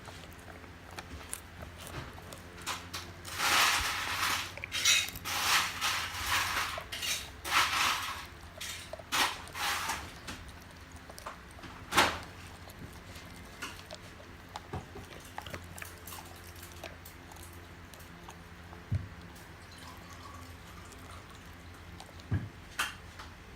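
A large dog crunching and gnawing a dried horse Achilles tendon chew: a run of crackly crunches for several seconds, one sharp crack, then occasional small clicks as it chews more slowly.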